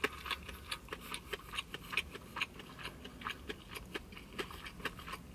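Close-miked chewing of crispy fried chicken with the mouth closed: a stream of small, irregular crunchy and wet clicks, several a second.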